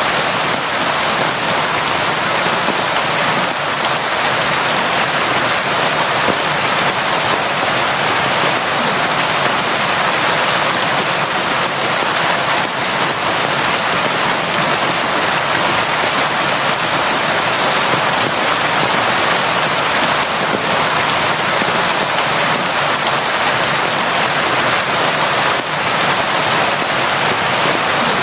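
Steady heavy rain falling on surfaces, an even hiss with faint scattered drop ticks and no change in strength.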